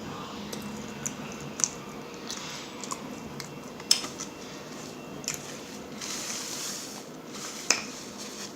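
Close-miked eating sounds: wet chewing and squishing with sharp mouth clicks and lip smacks.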